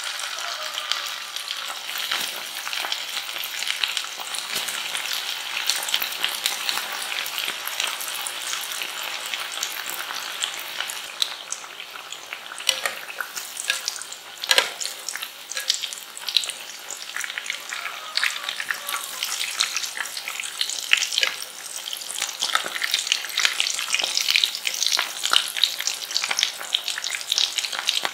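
Corn-starch-coated flattened potatoes frying in oil at 140 °C in a pan: a steady sizzle full of crackles and pops, with a few louder pops near the middle.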